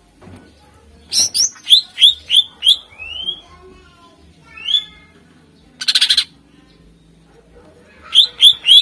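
Greater green leafbird (cucak ijo) singing: quick runs of sharp rising chirps, a single chirp in between, and a harsh buzzy rattle about six seconds in.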